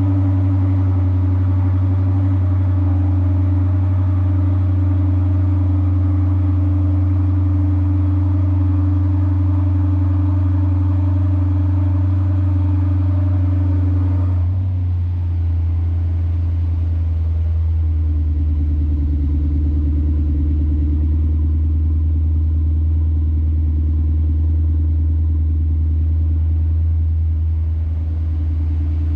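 Lexus IS500's 5.0-litre V8 running at cold-start fast idle through an RR Racing R2 axleback exhaust, a steady rumble. About halfway through, the idle drops to a lower, deeper and slightly quieter note as the cold-start high idle dials down.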